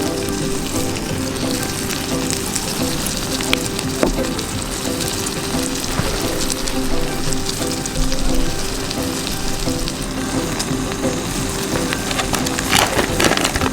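Food sizzling and crackling as it fries in a pan, with a short run of sharper clicks and clatter near the end. Soft background music plays underneath.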